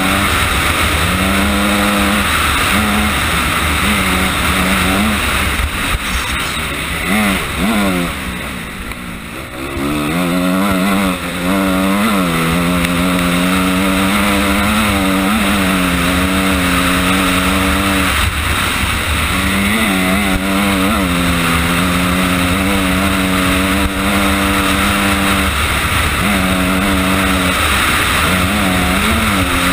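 Honda CRF250R's single-cylinder four-stroke engine pulling hard along a dirt trail, revs rising and falling as the throttle is chopped and reopened. There is a longer lull about eight seconds in, then a steady high-rev stretch.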